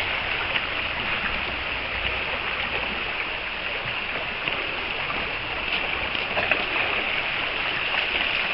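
Steady rush of flowing floodwater, with faint scattered ticks and splashes.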